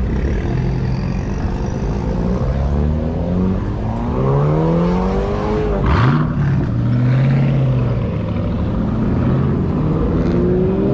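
A car engine revving up: its pitch climbs for about two seconds, then falls off suddenly with a brief sharp crack about six seconds in. The engine then holds a steady lower note, and it rises again near the end.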